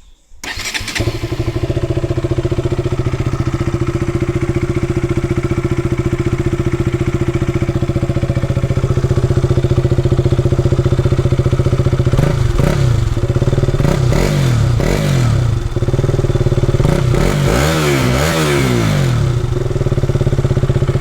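KTM RC 200's single-cylinder engine on its stock underbelly exhaust, idling steadily. From about twelve seconds in it is blipped through several quick revs, then settles back to idle.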